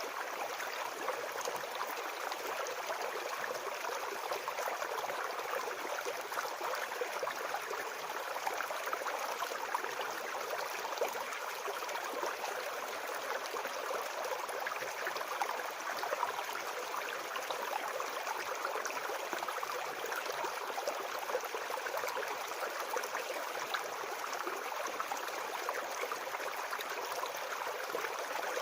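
Shallow forest brook babbling and gurgling over stones, a steady, even flow.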